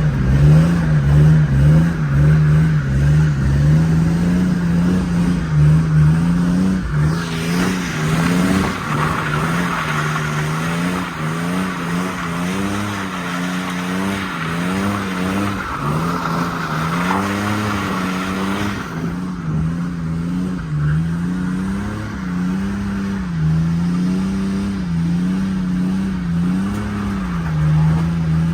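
BMW E36 M3's straight-six engine running under hard throttle, its revs climbing and dropping again and again as the car is drifted on a wet road. From about seven seconds in, for some twelve seconds, a loud tire hiss of wheelspin on the wet surface rides over the engine.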